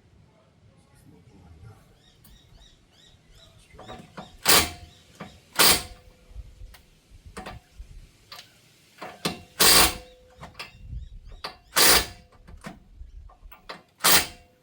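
Five loud, sharp bangs at uneven intervals of one to two seconds, with lighter knocks between them. A faint ringing tone lingers after some of the blows. A few faint bird chirps can be heard at the start.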